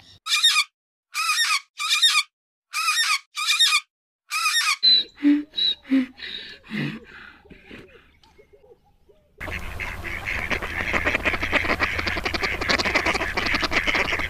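Birds calling, in three edited clips: about seven short, separate pitched calls cut apart by silence, then a few lower calls, then from about halfway on a dense, continuous flock chatter.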